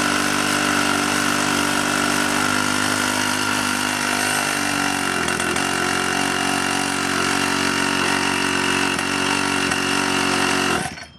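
Pocket bike's small two-stroke engine running steadily through its re-welded muffler, with a slight change in pitch about five seconds in. The exhaust is much quieter now that the muffler is back on and the hole is patched. The engine cuts off suddenly near the end.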